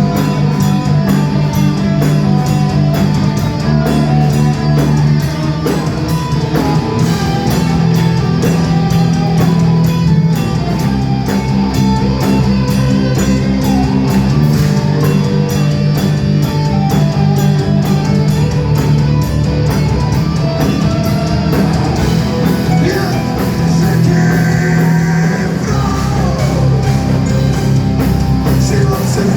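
Live rock band playing a song at full volume, with singing, electric guitars and a drum kit keeping a steady beat.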